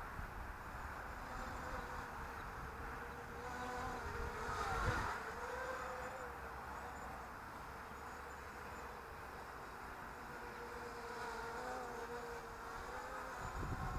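Buzzing whine of a ZMR250 mini racing quadcopter's motors and propellers, its pitch drifting up and down with throttle, briefly louder with a sharp dip in pitch about five seconds in. Wind rumbles on the microphone underneath.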